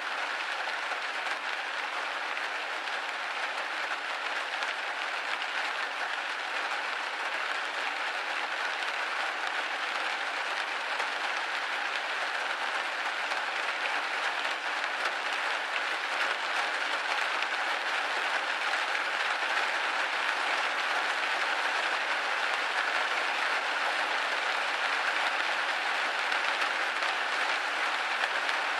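Steady rain falling on a window pane: a dense, even patter of drops with no low rumble, a little louder in the second half.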